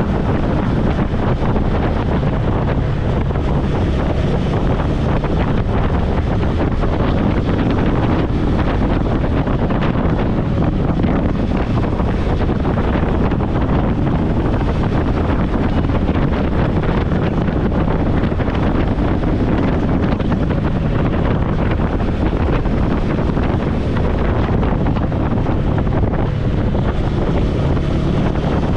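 Steady wind noise buffeting the microphone of a moving motorcycle, with the bike's engine running underneath as a low hum.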